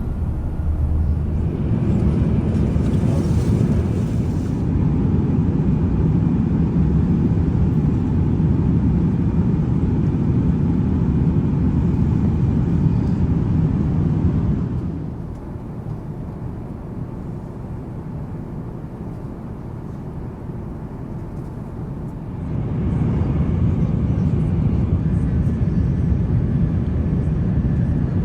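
Steady low roar of a jet airliner. It drops to a quieter level about halfway through, then rises again several seconds later.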